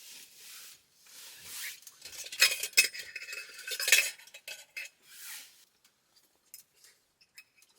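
Metal utensils scraping and clinking against metal cookware, with a cluster of sharp ringing clinks in the middle.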